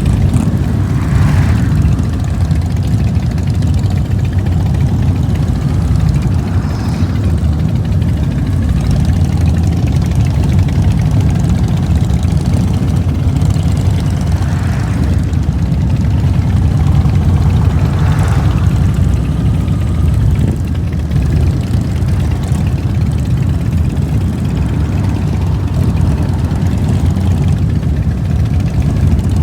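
Motorcycle engine running steadily as a low rumble while riding, with a few brief louder swells above it.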